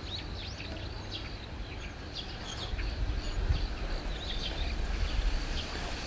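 Small birds chirping, many short quick calls, over a low outdoor rumble that grows louder about halfway through.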